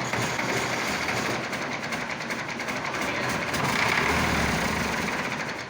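Massey Ferguson Super 90 diesel engine cranked by the starter on a cold start until it fires and starts, with a fast, even pulsing; it stops abruptly near the end.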